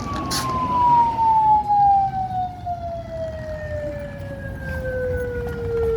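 A siren sounding one long wail that falls steadily in pitch as it winds down, over a low rumble.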